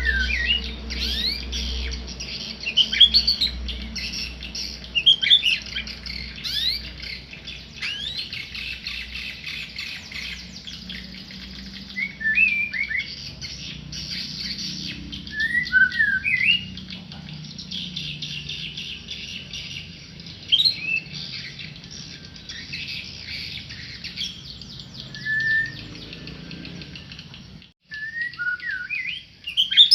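Tame murai, a Copsychus songbird, singing short phrases of sweeping whistles and chirps with pauses between them, over a steady hiss.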